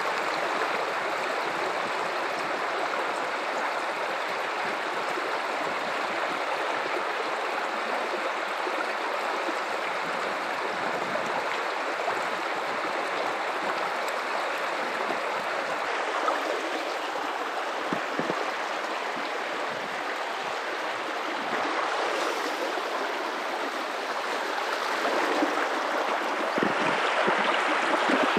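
Guadalupe River running: a steady rush of flowing water, growing a little louder near the end.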